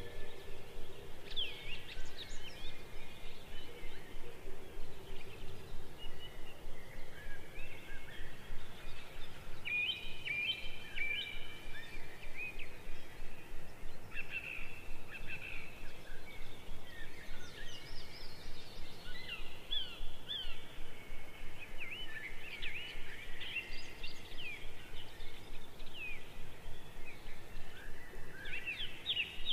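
Birds chirping: many quick, overlapping whistled calls and short trills over steady background noise.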